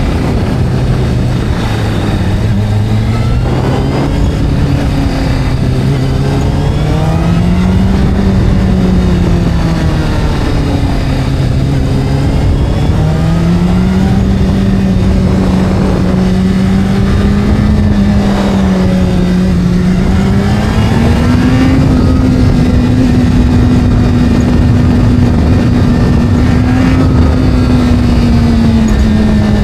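Motorcycle engine running at changing revs, its note slowly rising and falling, over a steady rush of wind and road noise. The note holds higher and steadier from about two-thirds of the way through.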